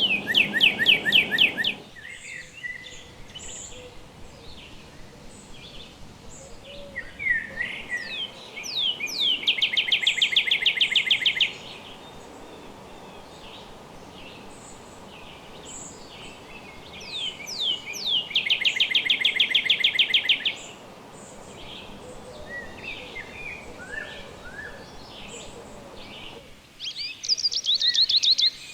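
A songbird sings the same phrase about every nine seconds: a few slurred sweeping notes, then a fast loud trill lasting two to three seconds. Softer chirps come between phrases over a steady low background hiss.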